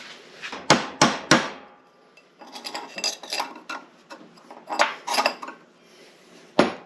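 Hammer striking a punch or drift, a series of sharp metal strikes in short bunches, driving an old bearing race out of an NP205 transfer case idler gear.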